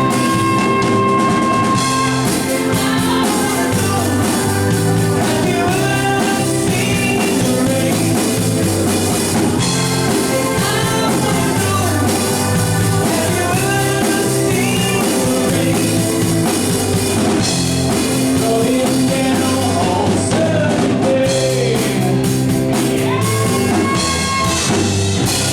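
Live rock band playing through the closing section of a song, with drum kit, keyboard and guitar keeping a steady beat under a wavering lead melody line.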